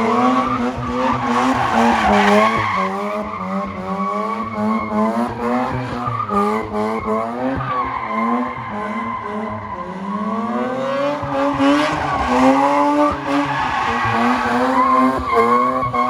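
A car drifting: the engine revs rise and fall over and over as the throttle is worked, while the tyres squeal steadily.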